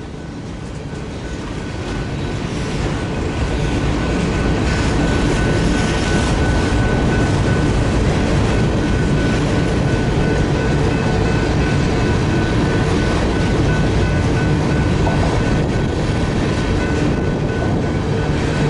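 A CPKC freight grain train led by diesel locomotives, growing louder over the first few seconds as it approaches and then rumbling past steadily.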